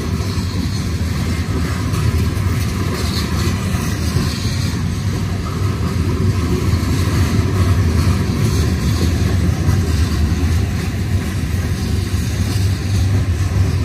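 Covered hopper cars of a freight train rolling past: a steady low rumble of steel wheels on the rails.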